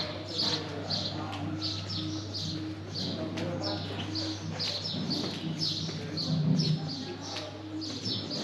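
A small bird chirping over and over, about two to three short high chirps a second, over a steady low hum.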